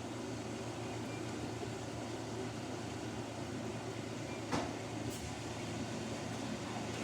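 Samsung washing machine running with a jacket in the drum: a steady low hum, with a single sharp knock about four and a half seconds in.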